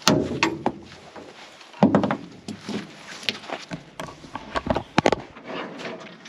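A string of irregular knocks and heavy thuds mixed with sharp clicks. The loudest hits come right at the start and just before two seconds in.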